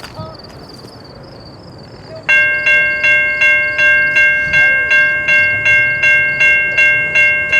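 Railway level-crossing warning bell starting suddenly about two seconds in and ringing at a steady pace, a little under three strikes a second: the crossing signals activating for an approaching train.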